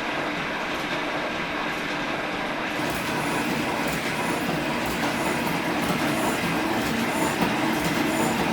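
Metal shaper running, its ram stroking back and forth as it cuts aluminum with a shear tool. It makes a steady mechanical clatter with a repeating tick about every three-quarters of a second, which gets sharper from about three seconds in.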